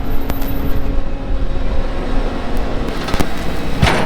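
Vehicle engine running steadily with a low rumble and a steady hum. Two sharp knocks come near the end, the second the loudest.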